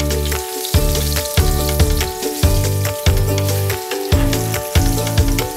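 Egg-dipped chicken breast sizzling and crackling in a hot frying pan as it is turned with a spatula, over background music with a steady beat.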